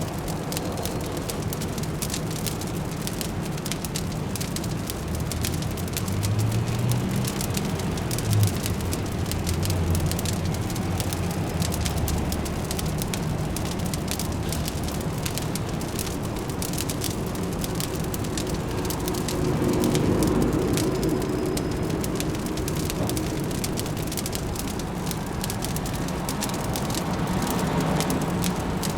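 Wood fire crackling with dense, quick pops over a steady low hum of distant city traffic, which swells a little now and then.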